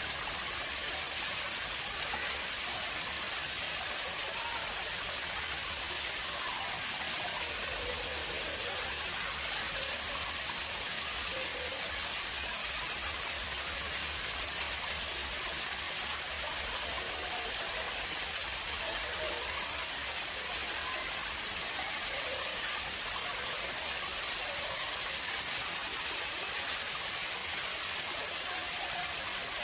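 Water flowing steadily into an artificial pond, a continuous even splashing rush.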